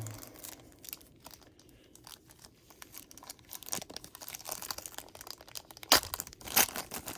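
Plastic wrapper of a baseball card pack crinkling and tearing as it is opened. The rustling grows louder partway through, with a few sharp snaps near the end.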